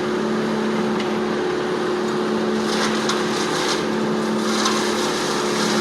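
Wood chipper running at a steady drone while chewing up tree limbs, with a spell of cracking and splintering wood about three to four and a half seconds in.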